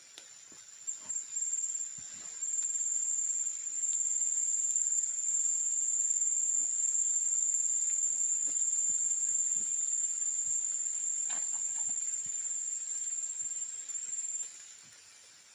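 An insect's high-pitched trill: a few short chirps, then a continuous shrill note from about two seconds in that stops shortly before the end. Faint scattered knocks sound underneath.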